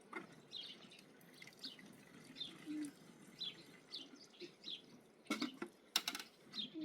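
Small birds chirping outdoors: short, high, falling chirps repeated every half second to a second. A few sharp knocks or clatters come near the end and are the loudest sounds.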